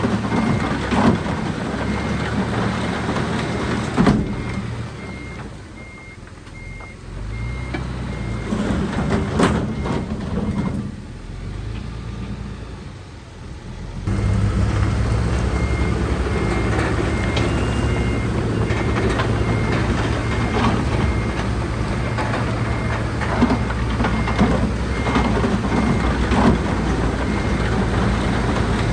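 Heavy earthmoving machinery running, with a reversing alarm beeping steadily at one pitch about twice a second. About four seconds in, the sound drops quieter and the beeping stops; about ten seconds later the engines return louder and the beeping resumes.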